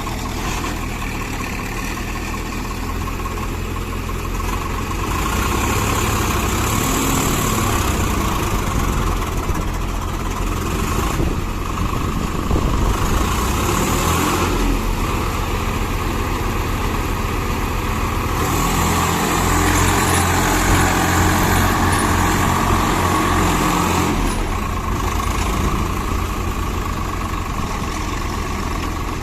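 Swaraj 855 FE tractor's three-cylinder diesel engine running under load, hauling a fully loaded trolley; its note shifts several times, rising and falling.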